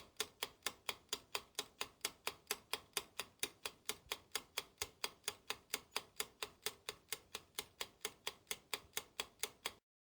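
Clock-ticking sound effect: even, sharp ticks about four to five a second, which stop abruptly near the end.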